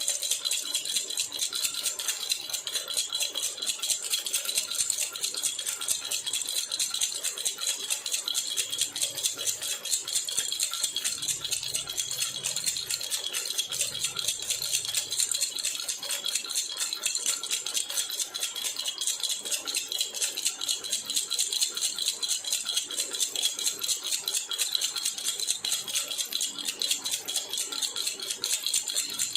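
Silver jhunjhuna, a metal baby rattle, shaken continuously in a fast, even rhythm, giving a bright, steady jingling.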